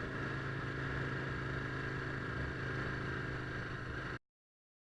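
Motorcycle engine running steadily at an even pitch, recorded on a dictaphone; it cuts off abruptly about four seconds in.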